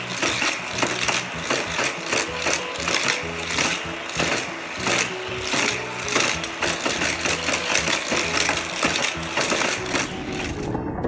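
Battery-powered motorized booster of a Hot Wheels track whirring steadily, with die-cast toy cars clattering through the plastic track. A different, music-like sound takes over near the end.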